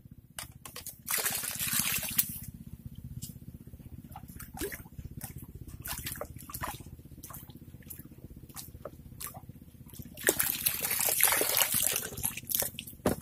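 Water sloshing and dripping, with scattered small drips and two short, louder spells of splashing: one about a second in and one about ten seconds in.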